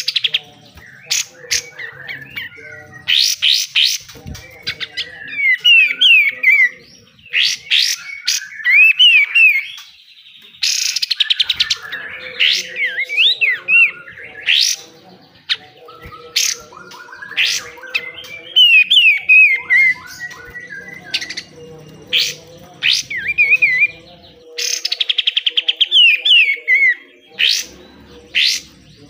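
Kapas tembak, a bulbul, singing in short, slurred whistled phrases broken by harsh rapid rattles, the 'besetan' call prized by bird keepers. A faint steady hum runs underneath.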